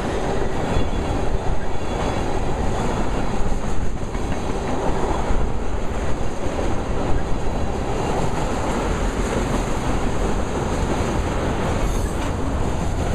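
Freight train cars, mostly loaded ethanol tank cars, rolling past at close range: a steady rumble of steel wheels on the rails with repeated clacking.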